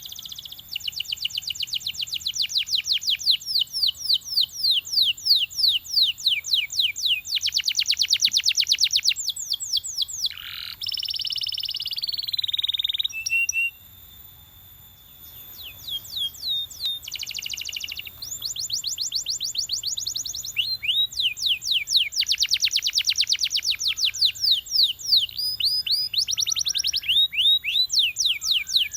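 Belgian canary singing: runs of fast repeated trills, with a long whistled note that rises and then holds about ten seconds in, and a short pause about halfway through.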